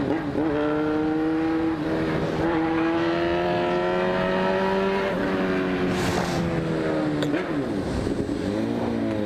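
Motorcycle with an aftermarket open exhaust tip being ridden, the engine pitch climbing steadily through the gears with breaks at the shifts. Near the end the revs drop away as the bike slows, then rise again as it is revved back up.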